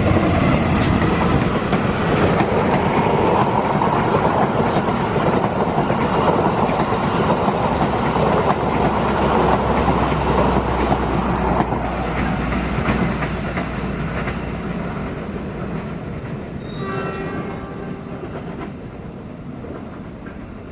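KAI CC206 diesel-electric locomotive and its passenger cars passing at speed: engine drone and heavy wheel-on-rail noise, fading steadily as the train draws away.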